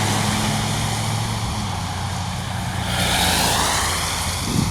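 Road traffic: a steady low engine hum under a constant hiss, with a vehicle passing by about three seconds in.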